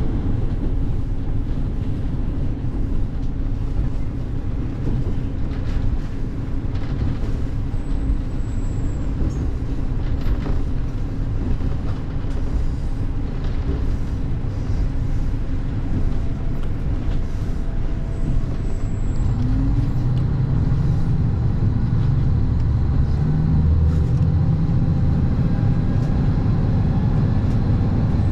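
Diesel train running along the track, a steady rumble that grows heavier in the low end about two-thirds of the way through.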